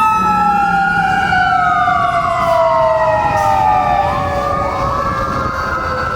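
Fire engine sirens wailing, several tones overlapping as they slowly fall and rise in pitch, with a new rising wail starting about four seconds in.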